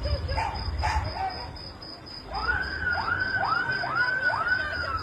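An emergency vehicle's electronic siren goes into a fast yelp about two seconds in, each sweep rising quickly and falling back, about two and a half a second, over a low engine rumble. Before that, a few short sharp sounds are heard in the first second.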